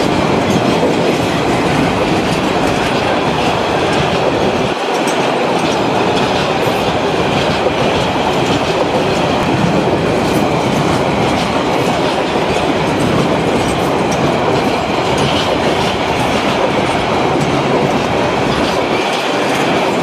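Freight train of tank wagons passing close at speed: a loud, steady rumble of wheels and wagons, with repeated clicking as the wheels run over the rail joints.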